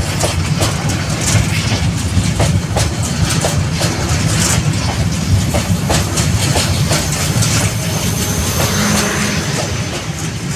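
Moving train running on the rails: a steady low rumble with many quick, irregular clicks and knocks of wheels over rail joints.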